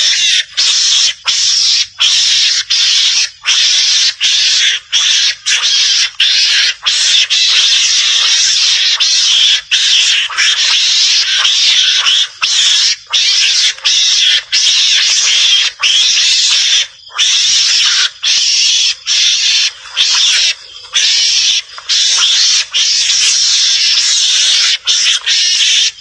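Mongoose (garangan) calls: a harsh, high screeching chatter in long, nearly continuous runs broken by brief gaps about every second. This is a recording of the animal's real call, used as a hunting lure to draw mongooses out of cover.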